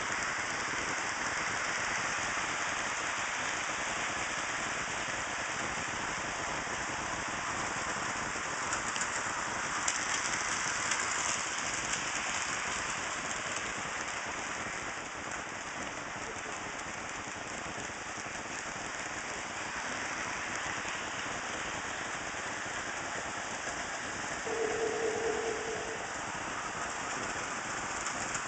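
HO scale model trains running on DC power: a steady rushing noise of small motors and wheels rolling on track. A short steady tone sounds for about a second and a half near the end.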